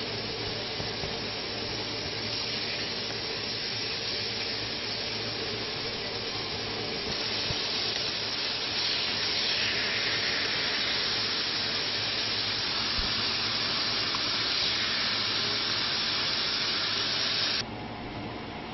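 Chicken pieces sizzling in hot oil in a frying pan, a steady hiss that grows louder about halfway through and drops sharply near the end.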